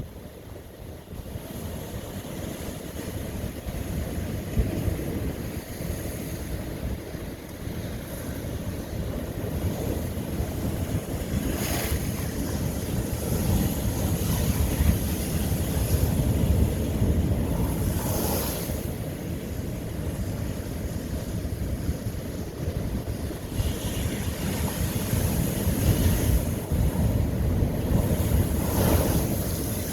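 Ocean waves breaking on lava rock, a steady low rumble of surf with three sharper splashing crashes, about 12, 18 and 29 seconds in.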